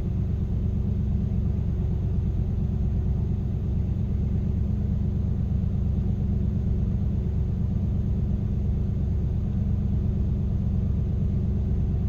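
1995 Ford Bronco's 5.8-litre 351 Windsor V8 idling steadily at its raised cold-start idle, a few tens of seconds after a cold start.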